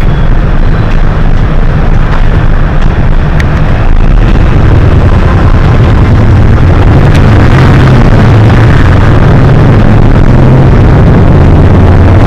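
Hino HS8JRVL city bus running, heard from on board as a loud, steady low engine and road rumble. The rumble grows louder about four seconds in and stays up.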